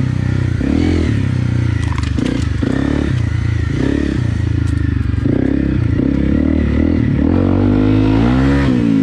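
Honda CRF250 Rally's single-cylinder four-stroke engine revving up and down repeatedly as the throttle is worked on and off, with the biggest rise and fall near the end. Occasional clatter and scraping from the bike over rough ground.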